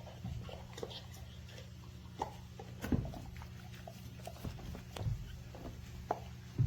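A dog playing with a hard rubber chew toy, making scattered light clicks and knocks, a few of them sharper, about three seconds in and again near the end.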